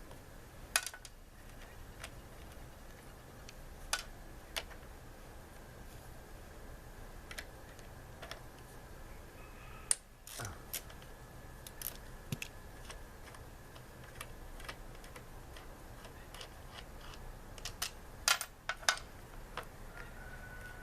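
Irregular light metallic clicks and clinks of a socket wrench and small parts as nuts and a thin sheet-metal shield come off a lawnmower engine, with a few sharper clicks in small clusters.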